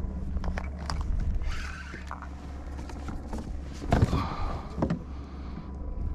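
Redfish being handled at a fishing kayak: scattered clicks, knocks and short splashes over a steady low rumble, with the loudest thump about four seconds in.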